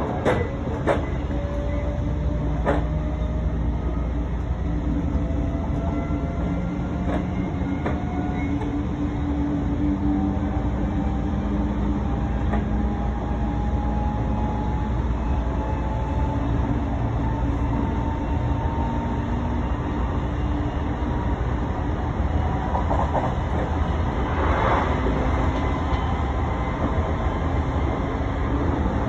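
Odakyu 3000-series electric train running: a steady rumble of wheels on rail, with a few sharp rail-joint clicks in the first seconds. The traction motors' whine rises slowly in pitch as the train gathers speed, and there is a brief louder rush about 25 seconds in.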